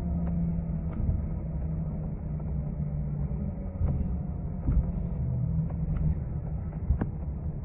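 City transit bus in motion, heard from inside: a steady low rumble from the engine and driveline, with a faint whine that slowly falls in pitch, and a few sharp rattles and clicks.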